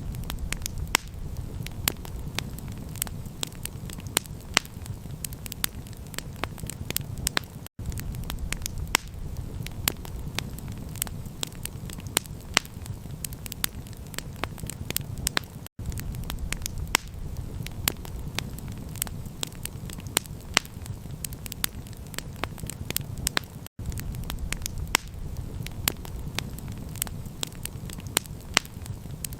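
Campfire crackling: dense sharp pops and snaps over a steady low rumble. The sound cuts out for an instant about every eight seconds.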